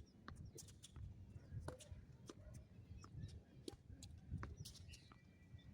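Faint wind rumble on the microphone, with many light, irregular clicks and taps.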